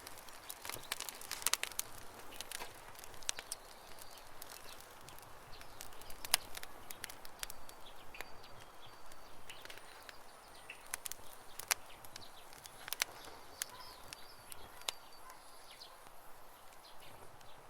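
Campfire crackling with irregular sharp pops, while small birds chirp in the background, with a few short high calls in the second half.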